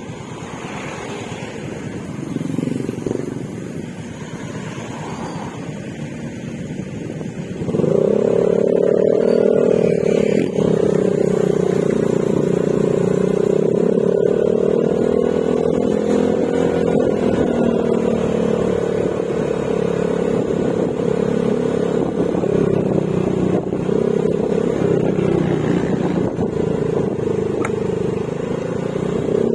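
Yamaha Mio Gravis scooter's single-cylinder engine running through an Akrapovic exhaust with silencer while riding. It is quieter at first; about eight seconds in the throttle opens and the exhaust note jumps up, then holds steady with slight rises and falls in pitch.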